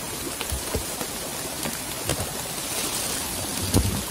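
Steady rain, an even hiss with scattered drops ticking, and one sharper click near the end.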